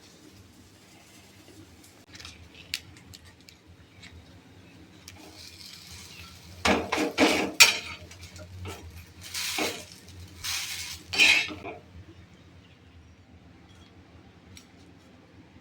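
Dishes and cutlery clinking and clattering: a few light clicks, then several loud clusters of clatter in the middle.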